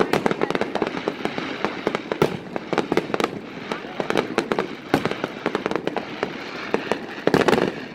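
Fireworks finale: a dense, near-continuous barrage of aerial shells bursting, with rapid bangs and crackling and a louder cluster of bangs near the end.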